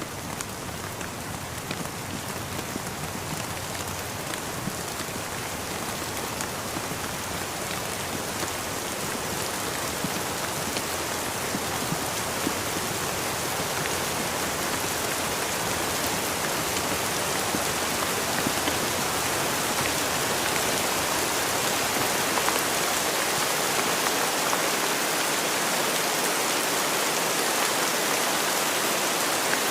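Steady rain falling, an even hiss of drops with scattered individual drop taps, swelling gradually louder.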